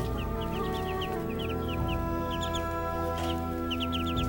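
Caged birds chirping in many quick short notes, with chickens clucking among them, over a steady background of held tones.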